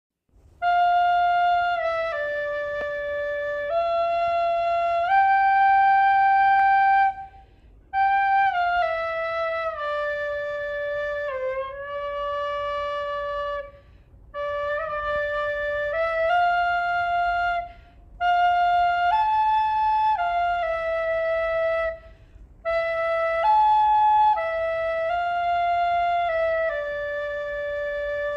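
A solo flute playing a slow melody in separate phrases of a few seconds each, with short pauses for breath between them and the occasional gentle slide down in pitch.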